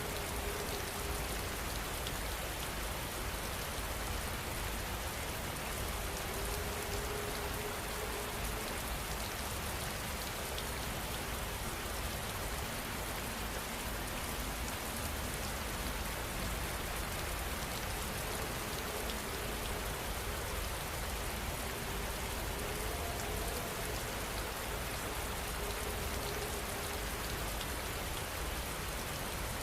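Steady heavy rain: an even, dense hiss of falling drops that keeps the same level throughout.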